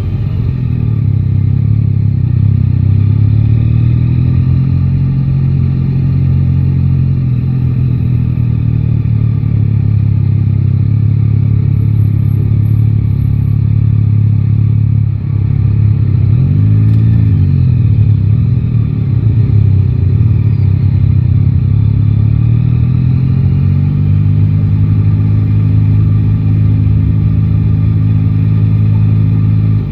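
Yamaha Tracer 9 GT's inline three-cylinder engine running steadily on the move, with a short dip about halfway through and then a quick rise and fall in engine pitch before it settles back to a steady note.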